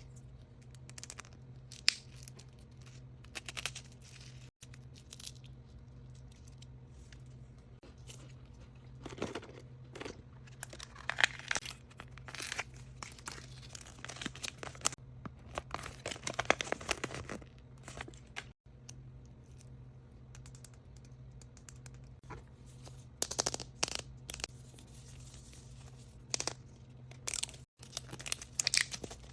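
Wrapping on mystery surprise toys being crinkled and torn open by hand, in irregular rustling bursts with a few sharp clicks. A low steady hum runs underneath.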